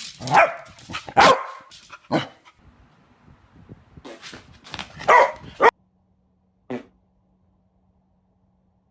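A dog barking in a quick run of short, loud barks, about half a dozen, then the sound cuts off abruptly, with one more short bark about a second later.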